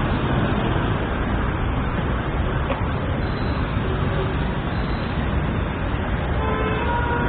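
City street traffic: a steady wash of car engines and tyre noise, with a car horn starting to sound near the end.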